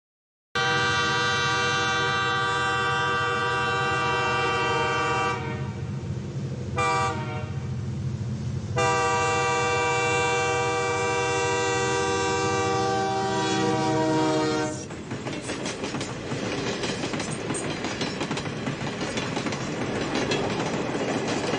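Train horn sounding a long, steady multi-note chord for about five seconds, then a short blast, then another long blast of about six seconds. After that comes the rumble and clatter of a train running on rails.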